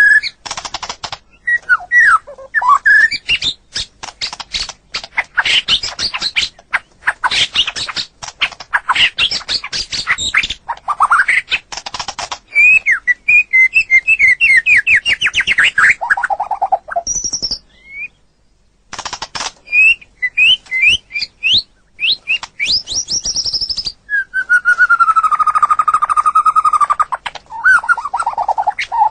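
White-rumped shama (murai batu) singing a varied song: fast clicking chatter, rapid trills and clear whistled phrases, broken by a short pause partway through, and a long held whistle near the end.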